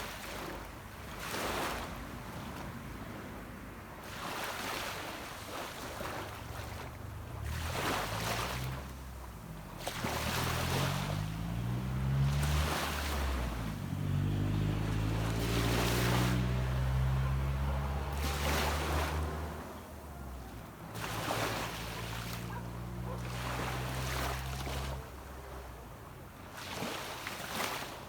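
Small waves breaking and washing up on a sandy beach every couple of seconds. A motorboat's engine hums offshore as it passes, rising in from about seven seconds in, shifting in pitch and fading out near the end.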